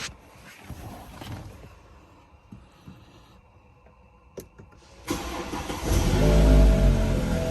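BMW F30 330i's 2.0-litre turbocharged four-cylinder starting from cold: a few light clicks, then about five seconds in the engine cranks and catches suddenly, flares briefly and settles into a steady high idle.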